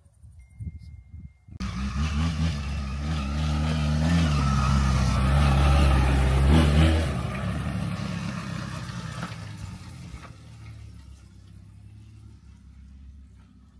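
Motor vehicle engine driving up close under load, revving higher and loudest about two-thirds of the way in, then dropping off sharply and fading as it moves away.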